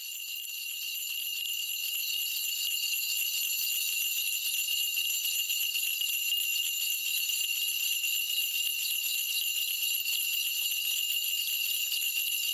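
Korean shaman's cluster of ritual bells shaken continuously during a spirit-divination reading, a steady bright jingling that swells over the first couple of seconds and then holds even.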